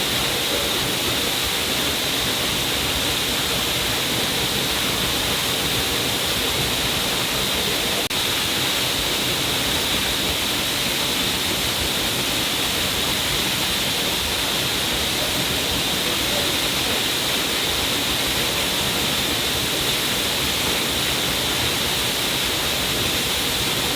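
Water pouring steadily down a cliff face and splashing below, a constant rushing hiss with a bright, high edge.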